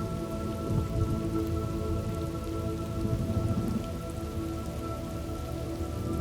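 Steady heavy rain with low rolling thunder, which swells near the start and again about halfway through, over a soft drone of steady held tones.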